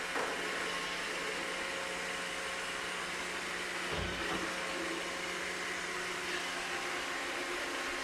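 iRobot Roomba 585 robot vacuum running, its vacuum motor and brushes giving a steady whirring hum, with a short low thud about four seconds in.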